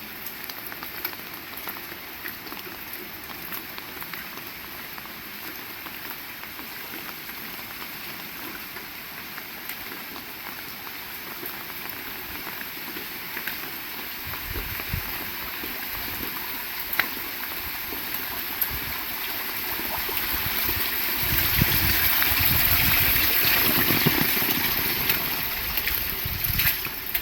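Heavy rain falling steadily. About halfway through, a deeper sound joins it, and the whole thing swells louder before easing off near the end.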